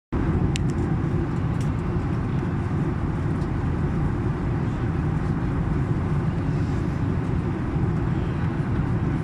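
Steady low rumble of a passenger airliner's engines and airflow, heard from inside the cabin during the descent to landing, with a couple of faint ticks in the first two seconds.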